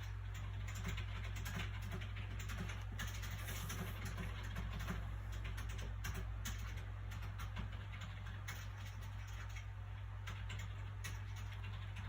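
Soft paper sounds from handling a book: irregular small crinkles and ticks of the pages. A steady low hum runs underneath.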